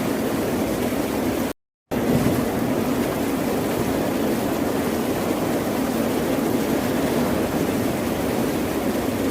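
Steady, even ocean surf noise with no separate wave crashes standing out. About one and a half seconds in, it cuts to total silence for about a third of a second and then resumes.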